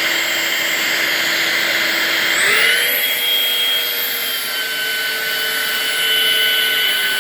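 Eufy HomeVac S11 cordless stick vacuum running with a steady whine that steps up in pitch about two and a half seconds in as it goes to maximum power, then holds there. With the telescopic brush fitted, this is the setting at which it repeatedly cuts out and shows a flat battery although fully charged.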